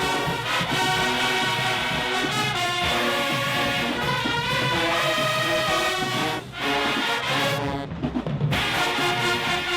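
High school marching band playing, with brass and drums together. The music breaks off briefly about six and a half seconds in. Near eight seconds the sound thins to mostly lower, choppier playing before the full band comes back.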